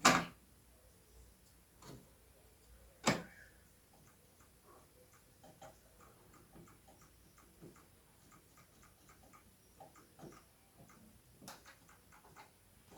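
Small plastic clicks and taps from handling the keys and key mechanism of an opened electronic keyboard, with a sharp knock at the start and another about three seconds in.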